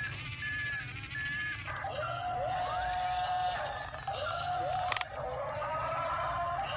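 Electronic beeps and tones: a few short high beeps, then a run of tones that each swoop up and hold steady, with a sharp click about five seconds in.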